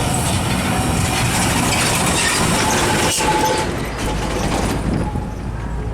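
Heavy road traffic with trucks passing close by: engines and tyres making a loud, steady noise, with a low rumble coming in about four seconds in.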